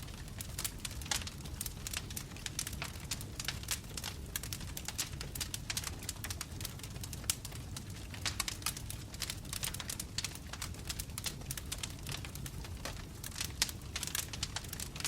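Wood fire crackling steadily in a fireplace: many irregular sharp pops and snaps from burning logs over a low, steady rumble of the flames.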